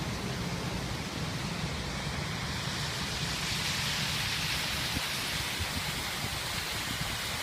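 Waterfall: a steady rush of falling water that grows a little brighter about halfway through, over a low rumble.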